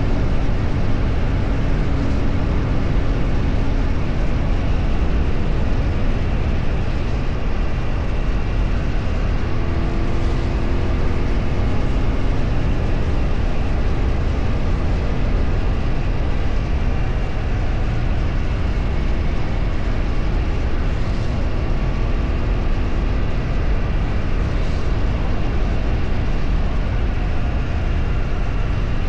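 Steady wind rush and road noise from a vehicle travelling at speed, heavy on the microphone, with a faint engine note rising briefly about ten seconds in.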